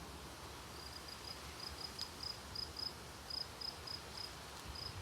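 Cricket chirping: short, high chirps repeating two or three times a second over faint outdoor hiss.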